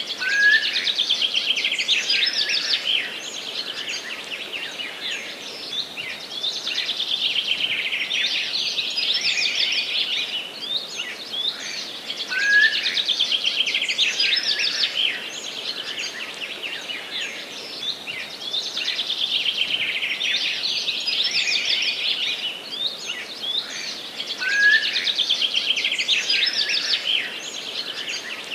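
A songbird singing, repeating a long, fast-trilled song phrase of about three seconds roughly every six seconds, five times in all, over faint forest background.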